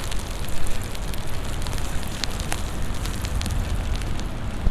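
Steady rain falling, with scattered sharp ticks of drops striking close by, over a continuous low rumble.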